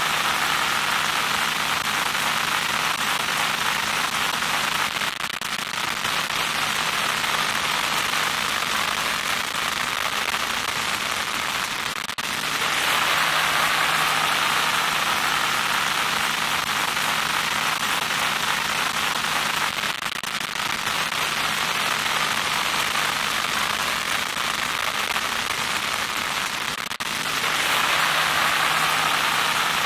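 Loud electronic static: a steady crackling hiss with a faint low hum underneath, brightening slightly every seven or eight seconds.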